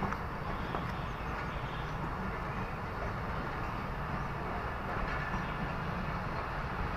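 Passenger train moving along the track, a steady rumble of its coaches and wheels on the rails.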